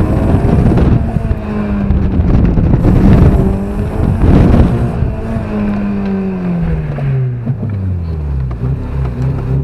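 Small car's engine running at high revs through a slalom run, with a loud rush of tyre and wind noise peaking about three to five seconds in. From about halfway the engine note falls steadily as the driver lifts off and the car slows, settling to a low note near the end.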